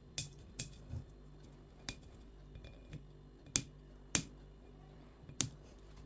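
About seven sharp clicks and taps of small hard objects being handled, coming at irregular intervals over a faint steady low hum.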